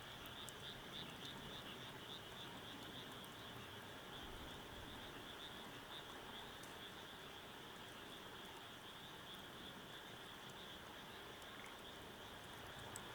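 Steady, quiet night chorus of calling frogs and insects, a constant high-pitched trilling hum, with a few faint sharp crackles of a wood fire.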